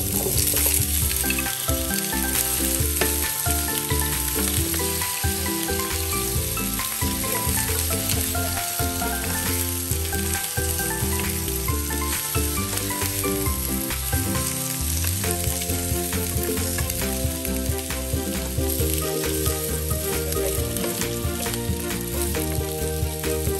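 Raw potato chunks sizzling in hot olive oil in a frying pan, the sizzle starting suddenly as they are tipped in and then going on steadily while they are turned with a wooden spatula.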